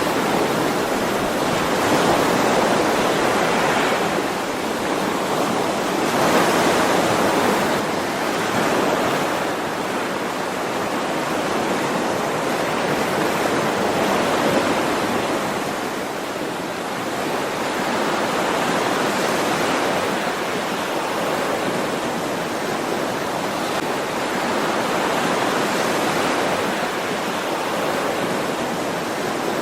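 Ocean waves breaking and washing on a shore: a continuous surf hiss that swells and eases every few seconds.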